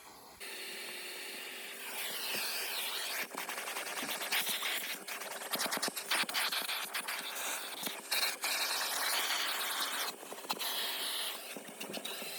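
Vacuum cleaner running on a car's carpets and seats: a steady motor whine under a hiss of suction, with many small clicks and scrapes as the nozzle works over the upholstery. It switches on about half a second in.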